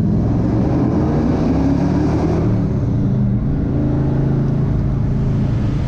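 1968 Chevrolet Chevelle's engine running under way. The revs climb and drop back about one to two seconds in, then hold steady.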